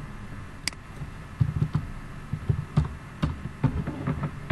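Computer mouse clicking a few times, with a run of irregular low, dull thumps from about a second and a half in, as of keys being typed or hands on the desk near the microphone.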